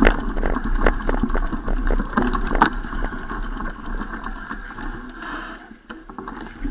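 Riding noise from a bicycle: wind rumbling on the microphone, with many quick rattling clicks and knocks. It gets quieter after about five seconds.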